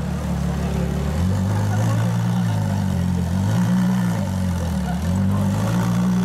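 A supercar engine running at low revs, its deep note rising and falling a few times in short steps.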